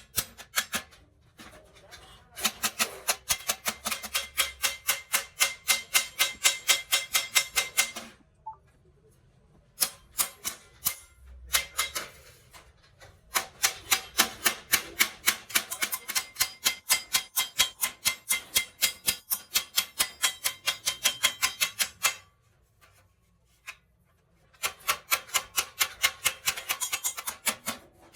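Rapid, evenly spaced hammer blows on sheet metal, about four a second, in three runs of several seconds with short pauses between.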